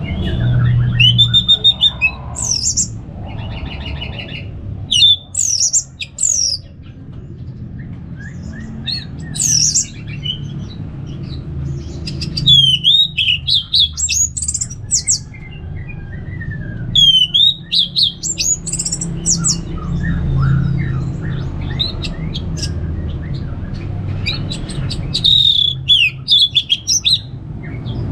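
Orange-headed thrush singing a varied song of short whistled phrases, quick sweeping notes and chatters, broken by brief pauses, over a steady low hum.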